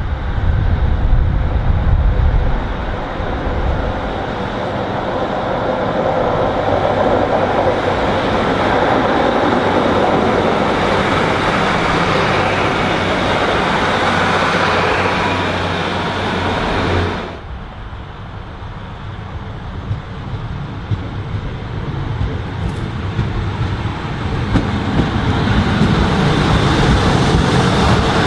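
Diesel multiple unit trains: a train running past with rumble and rail noise building to a peak, then cutting off suddenly about two-thirds of the way through, after which a lower diesel engine rumble swells again near the end.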